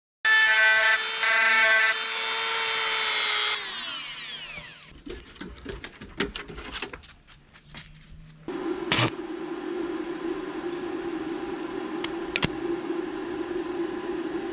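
A handheld electric power tool runs at full speed, is briefly released twice, then is let go and its motor spins down. A few clicks and knocks follow, then a steady hum starts about eight seconds in and runs on.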